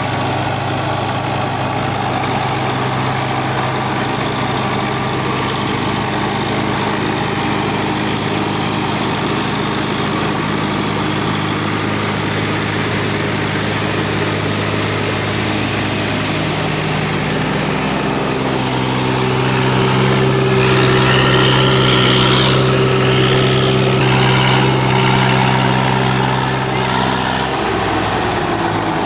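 Swaraj 744 tractors' three-cylinder diesel engines running hard and steadily, pulling against each other in a tug of war. About two-thirds of the way through the engine note shifts and grows louder for several seconds, and near the end an engine's pitch falls away as it eases off.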